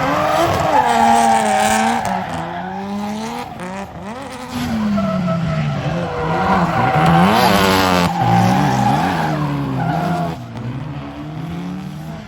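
Drift car engine revving up and down on and off the throttle, with tires squealing and skidding in a slide; the engine pitch swings repeatedly, loudest about a second in and again around seven seconds.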